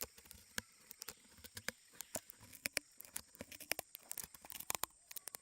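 Leafcutter ants cutting segments out of leaves: rapid, irregular crisp clicks and crackles of leaf tissue being snipped and torn, several a second, over a faint steady high tone.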